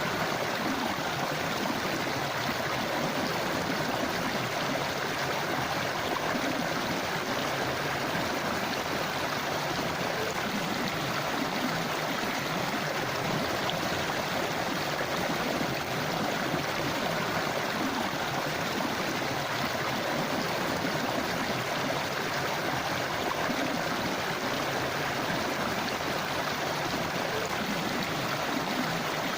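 Forest river or stream flowing steadily over rocks, a constant rushing and gurgling of water.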